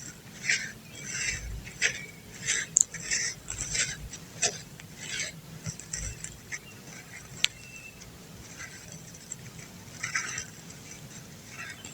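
Dry clumps of brown dirt being crumbled, a run of short crisp gritty crunches, closely spaced over the first half, then a few scattered ones after a brief pause.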